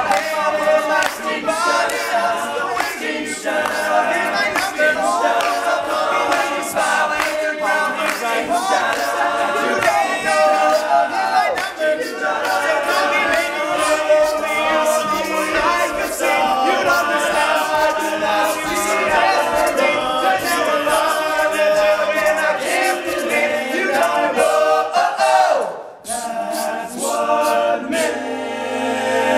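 Men's a cappella group singing in close harmony, voices only with no instruments. A brief break comes near the end, then one last sung phrase.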